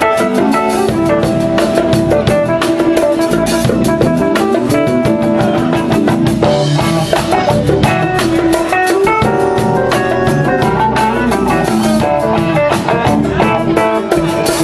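Live band playing an instrumental passage of a soul song: drum kit keeping a steady beat, with bass, keyboards and guitar.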